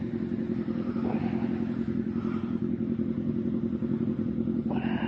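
Motorcycle engine idling steadily. A higher-pitched sound joins near the end.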